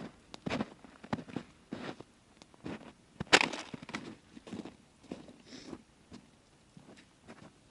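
Wood campfire crackling, with irregular pops and snaps at uneven intervals and one sharp, loud snap a little over three seconds in.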